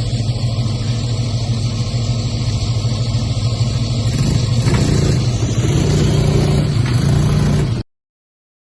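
4x4 competition truck's engine running with a steady low note, revving up a little about halfway through and again later. It cuts off suddenly near the end.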